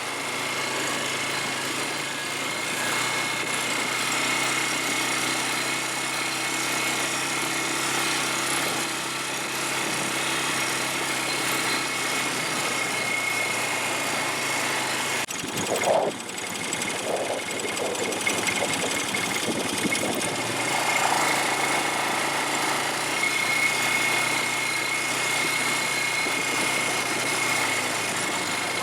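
Small ATV engine running steadily under way. Halfway through there is a brief knock or jolt.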